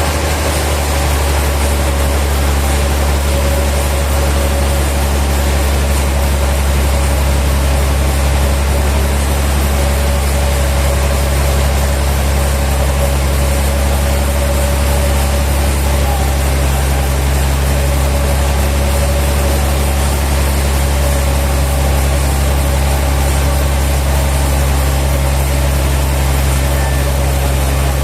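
Sawmill machinery running steadily: a low, even engine drone with a faint steady whine above it, holding the same pitch throughout with no cutting bursts.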